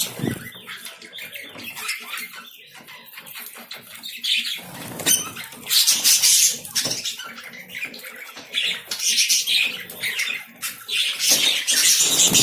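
Pet lovebirds moving about, with bursts of wing flapping and high, scratchy bird noise, loudest around six seconds in and again near the end.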